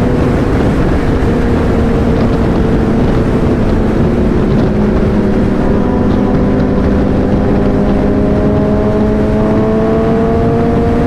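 Motorcycle engine running at a steady cruise under heavy wind noise, the engine note easing slightly and then climbing again in the last few seconds as the bike speeds up.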